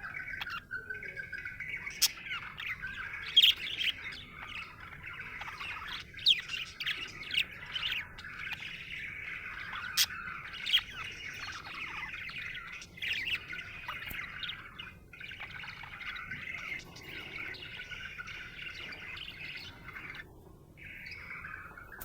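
Budgerigar warbling and chattering without a break, with sharper, louder chirps now and then.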